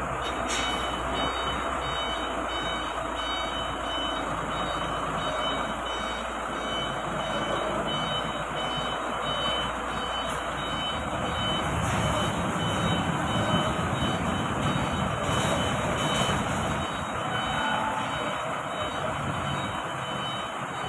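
Heavy truck's diesel engine running steadily while the truck manoeuvres, a little louder and deeper in the second half.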